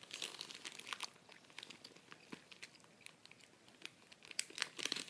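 Gummy bears chewed right against the microphone: quick clicking mouth sounds, busiest in the first second and again near the end.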